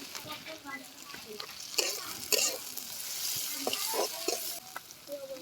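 Food frying in oil in a pan while a spoon stirs it and scrapes the pan. The sizzling hiss swells in the middle of the stretch, and the stirring makes scattered scrapes and clicks.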